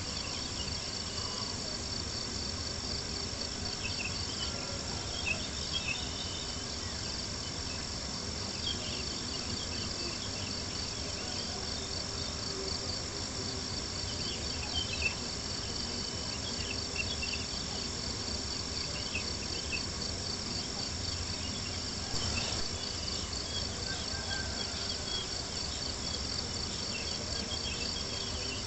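Crickets chirping in a steady, high, pulsing trill. Occasional small crackling pops from a campfire sound over a steady low rumble.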